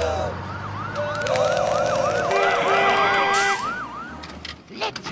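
Cartoon police car siren sound effect: a fast yelp, a rising sweep repeated about three times a second for a couple of seconds, with steady tones layered over it in the middle.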